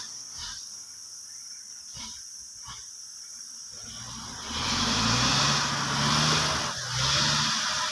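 Logging truck's diesel engine revving up about halfway through, its pitch rising and then holding, after a few quieter seconds of hiss with a couple of clicks.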